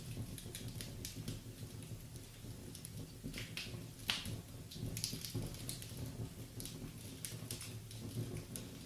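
Wood fire crackling in a fireplace: irregular pops and snaps over a low, steady rumble of flames, with one sharper pop about four seconds in.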